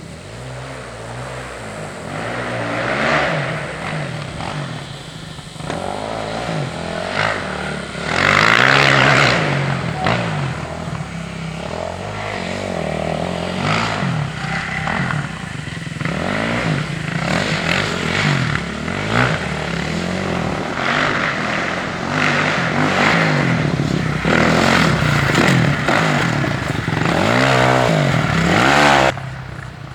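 Dirt bike engine being ridden hard, revving up and down over and over as its pitch rises and falls; the sound drops off suddenly near the end.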